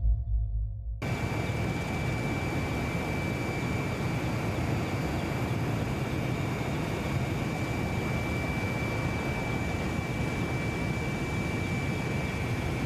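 Military jet aircraft flying over: a steady rushing engine noise with a thin, high whine held throughout. A deep low sound cuts off about a second in, just before the jet noise starts.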